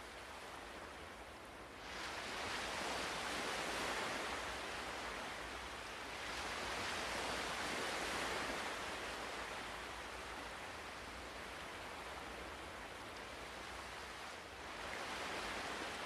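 Ocean waves washing on a shore: a steady hiss of surf that swells as waves come in, about two seconds in, again around six seconds, and near the end.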